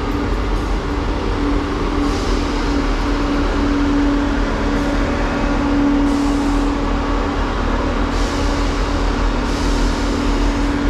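Class 158 diesel multiple units idling at a platform: a steady engine rumble with a held hum, broken by several short hisses of air.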